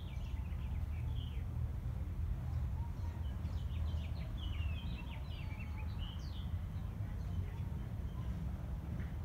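Small birds chirping in the trees, many short high calls and quick twittering runs, thickest a few seconds in, over a steady low rumble.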